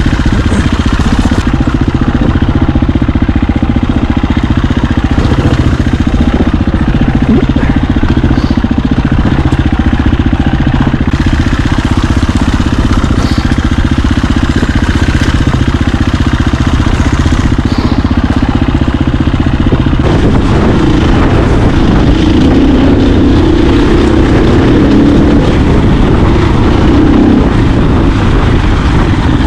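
Dirt bike engine running steadily while riding off-road. About two-thirds of the way through, its note becomes louder and rougher.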